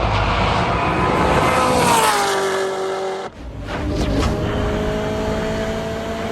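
Car engines at wide-open throttle during a roll race. The engine note climbs, then drops about two seconds in as the car shifts gear. It breaks off sharply just after three seconds, then returns and climbs slowly again.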